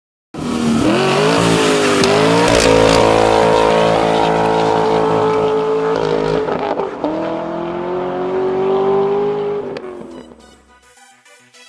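Car engine revving hard, starting suddenly and climbing in pitch, held high, dipping briefly and climbing again, then fading away. Music comes in near the end.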